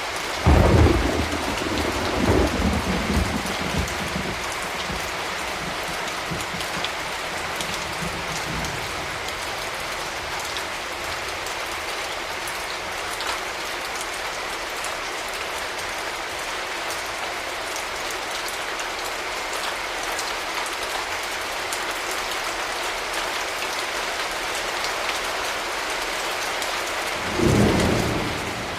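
Steady rain falling, with a thunderclap and rolling rumble of thunder about half a second in that fades over several seconds, and another rumble of thunder near the end.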